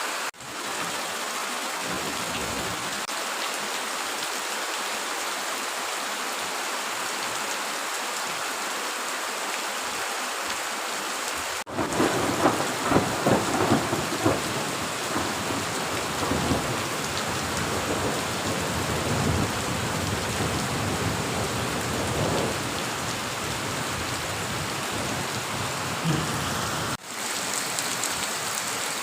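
Heavy rain falling steadily as a dense hiss. A little over a third of the way in, an abrupt change brings a louder stretch with a low rumble and irregular peaks under the rain; it cuts off abruptly near the end, returning to plain rain.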